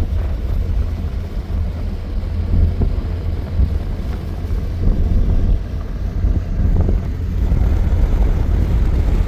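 Wind buffeting the microphone: a loud low rumble that rises and falls.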